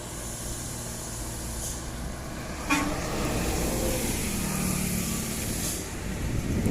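Diesel engine of an overloaded sugarcane truck with trailer labouring up a steep climb. It grows louder as it comes closer from about three seconds in, with a short horn toot around then.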